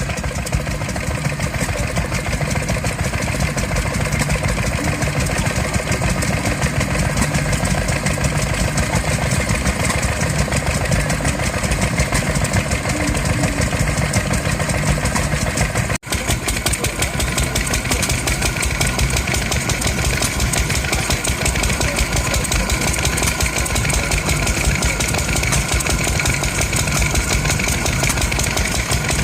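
Vintage engines running steadily. The sound breaks off for an instant about halfway through, and a second engine with a slightly different tone runs after it.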